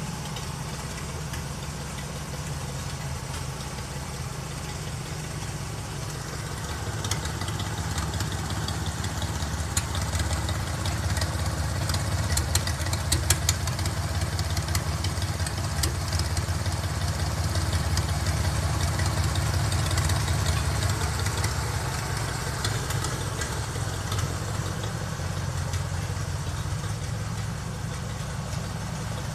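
Rat rod truck's engine idling steadily after its first start. The idle swells a little through the middle and settles again, with some faint scattered ticking in the first half.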